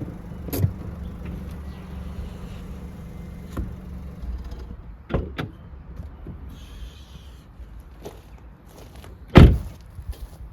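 A car engine idling with a low steady rumble that cuts off about four and a half seconds in. A few knocks are heard, and near the end comes one loud thump like a car door shutting.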